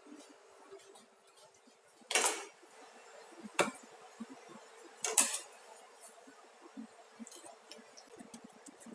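Kitchen dishes and utensils clattering: three sharp knocks, about two, three and a half and five seconds in, the first and last slightly drawn out, with a few faint ticks between.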